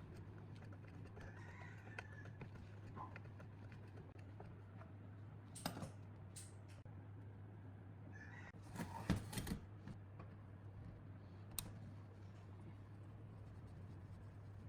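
Scattered sharp clicks and knocks, with a cluster of louder clacks about nine seconds in, over a steady low hum.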